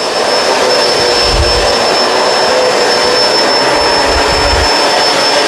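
Kenmore Crossover Ultra upright vacuum running steadily as it is pushed over a thick-pile rug, with a constant high motor whine over the roar of the suction. Two brief low rumbles come about a second in and again about four seconds in.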